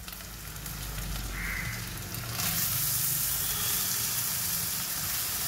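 Sliced onions, green chilli and ginger-garlic paste sizzling in hot oil in an open pressure cooker. About two and a half seconds in the sizzle gets suddenly louder as chopped tomatoes go into the hot pan.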